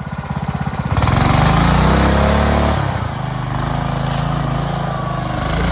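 A small off-road vehicle engine ticks over, then revs up hard about a second in and keeps running at high revs, dipping briefly and pulling again, as if driving through deep mud.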